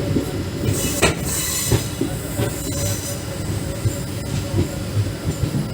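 Indian Railways passenger train running on the rails: a steady low rumble with irregular knocks from the wheels, and a brief high hiss about a second in.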